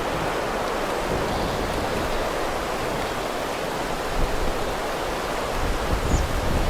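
Steady rushing of wind and rain, with low gusts buffeting the microphone about four seconds in and again near the end.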